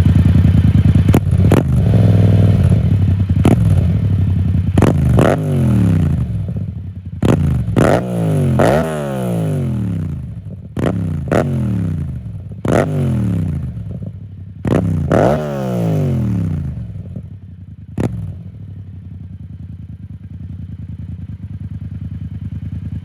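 Yamaha FZ-07 (MT-07) parallel-twin engine through an Akrapovic exhaust, revved in a series of quick throttle blips. Each rev falls back toward idle. After a last sharp crack the engine settles to a quieter idle.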